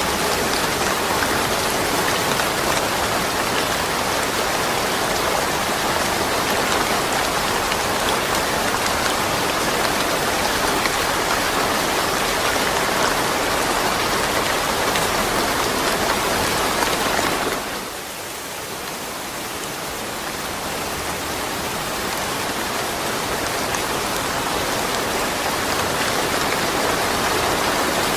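Steady rain falling. About two-thirds of the way through it suddenly drops quieter, then gradually builds back to its earlier level.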